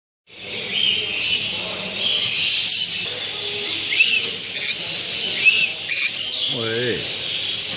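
Many caged birds chirping and squawking at once, a dense overlapping chorus of short high calls. One lower call slides down in pitch near the end.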